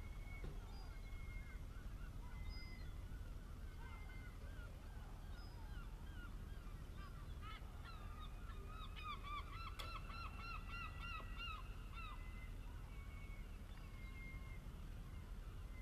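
Birds calling: short calls repeated throughout, thickening into a dense rapid chatter of many calls from about seven to twelve seconds in, over a low steady hum.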